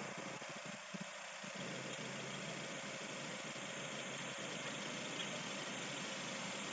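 1998 Mazda 626's engine idling steadily, on a car that has a rough idle under load.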